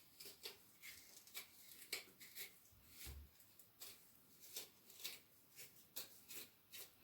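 Faint comb strokes through hair coated in conditioner: many soft, short, irregularly spaced scratches.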